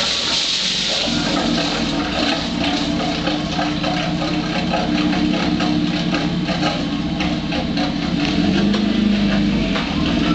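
Renault Megane 225's 2.0-litre turbocharged four-cylinder engine being started for the first time after flood damage: a hissing crank, then the engine catches about a second in and keeps running steadily, with many small ticks over it.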